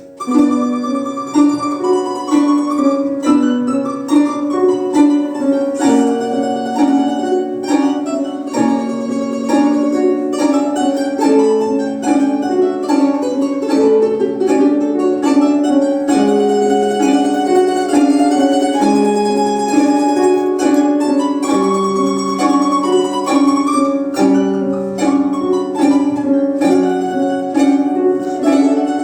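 Domra quartet playing an ensemble piece of plucked-string music, with several parts of melody and accompaniment moving note by note. The playing resumes at the start after a brief pause.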